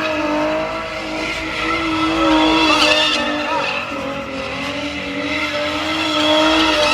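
A car's engine held at high revs during a burnout, with tyres squealing and skidding on the pavement. The engine note eases down a little about two and a half seconds in.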